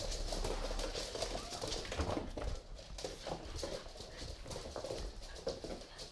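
Pit bull puppies playing, their claws and paws clattering on a hard floor in quick irregular taps, with short dog sounds among them.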